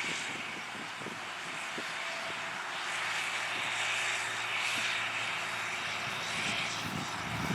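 John Deere 8300 tractor's diesel engine running steadily under load while cultivating, a continuous drone that swells slightly midway.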